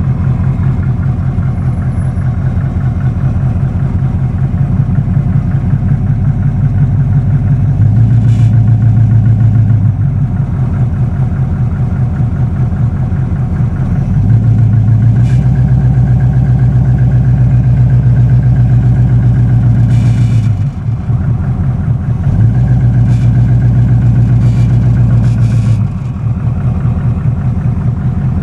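1979 Camaro's 305 Chevy small-block V8 running, raised to a higher steady speed three times and dropping back to idle in between. It is making a knocking sound that the owner suspects is rod knock.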